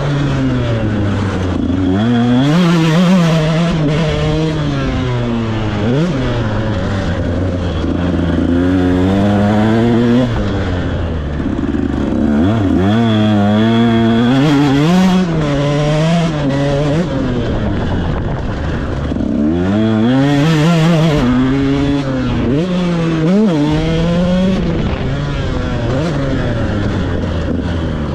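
KTM SX 125 two-stroke motocross engine revving hard and falling back again and again, its pitch climbing and dropping as the throttle is opened and shut and gears are shifted.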